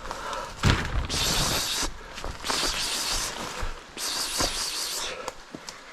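Rustling and brushing of vegetation as someone moves on foot through scrub, in three noisy surges, with a sharp thump about a second in.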